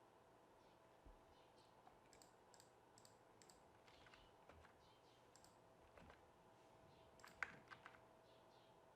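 Faint, scattered clicks of a computer mouse and keyboard, with a slightly louder cluster a little after seven seconds in, over near-silent room tone with a faint steady hum.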